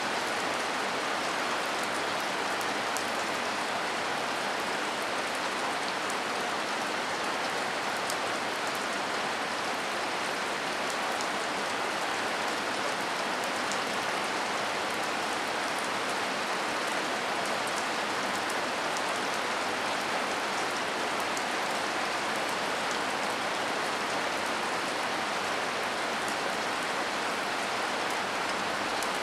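Heavy rain falling steadily: a dense, even hiss with no let-up, with occasional faint sharp ticks.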